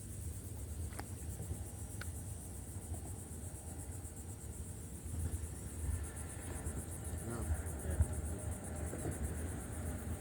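Insects chirring steadily in a high, finely pulsing trill, over a constant low rumble.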